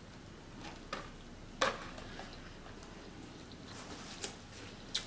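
Quiet chewing of a mouthful of Caesar salad with chicken, with a few short sharp clicks, the loudest about a second and a half in.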